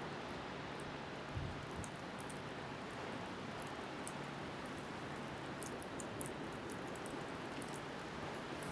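Seaside bonfire crackling, with scattered small pops, over a steady rush of wind and waves.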